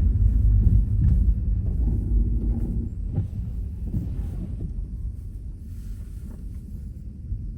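Low rumble of a car driving on a snow-covered road, with a few faint clicks; the rumble gradually dies down.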